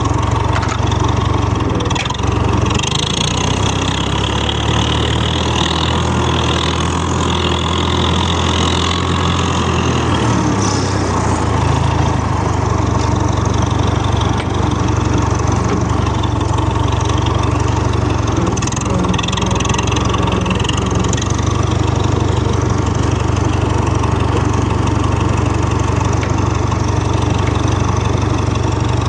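Tractor engine running steadily at a low, even note, its pitch shifting slightly about ten seconds in.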